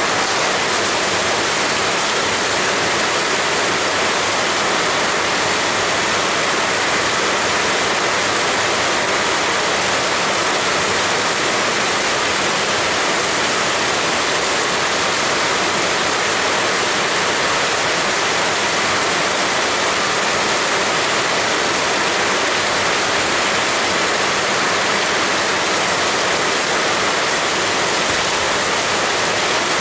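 Heavy rain falling, a steady, dense hiss with no let-up.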